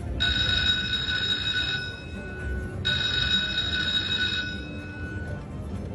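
Slot machine's hand-pay jackpot bell ringing in two bursts of about a second and a half each, a bright bell-like ring of several steady high tones. It signals a jackpot that an attendant must pay by hand. A low casino din runs underneath.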